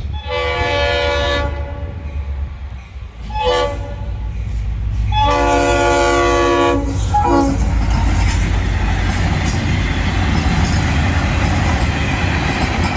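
Train horn sounding four blasts for a grade crossing: long, short, long, short. Then the train runs past with a steady rumble and wheels clacking over the rail joints.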